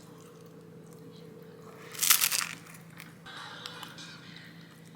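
A short, loud crunching burst about two seconds in, with a few faint ticks after it, over a steady low hum.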